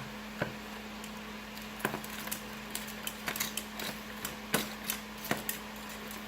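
Chicken wings being tossed in a bowl of hot sauce mixture: a handful of scattered clicks and knocks from the bowl and utensil, over a steady low hum.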